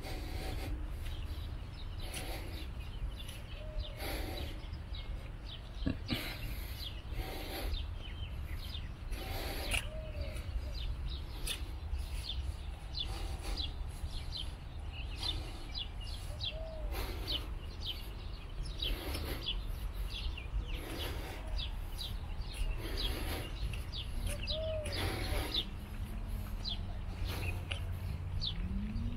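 Small birds chirping in many short, high notes, over a steady low wind rumble on the microphone and footsteps on paving recurring about every second or two.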